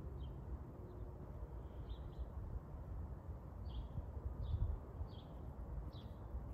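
Birds chirping outdoors: short high chirps, about seven of them, spaced a half-second to a second apart and mostly in the second half, over a steady low rumble.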